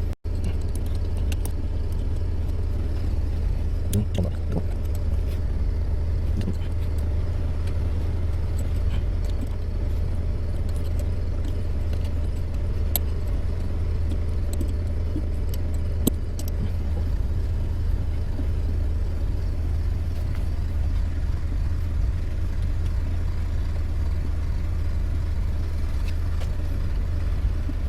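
Renault Samsung QM5 diesel engine idling with a steady low hum, heard from inside the car, with a few light clicks and small rattles as the steering is worked to test the freshly greased lower column seal; no steering-column squeak stands out.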